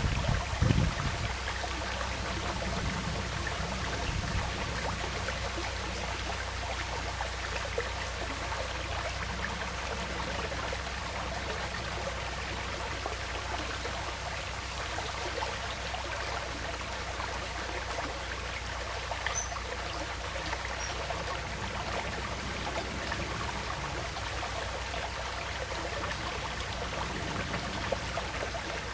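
Woodland stream flowing and trickling steadily. A gust of wind buffeting the microphone dies away in the first second.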